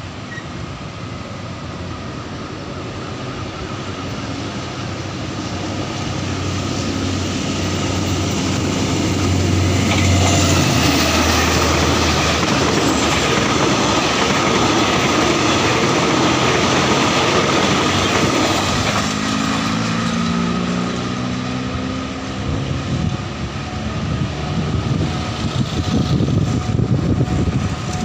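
State Railway of Thailand diesel-hauled passenger train approaching and passing: the locomotive's engine hum builds over the first ten seconds, then the coaches rumble and clatter past on the rails for several seconds. As the train clears, motorcycle engines rev and pull away across the tracks. A thin steady high tone sounds throughout.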